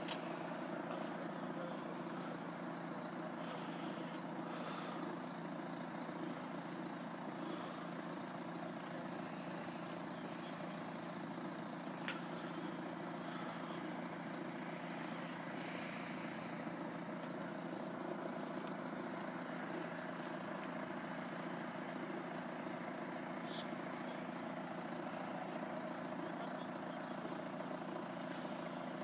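Steady low hum and background rumble, unchanging throughout, with a few faint clicks.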